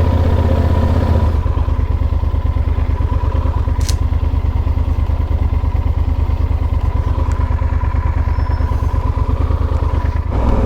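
Yamaha Super Ténéré parallel-twin motorcycle engine running steadily while riding. The note eases off about a second in, and there is one brief click near the middle.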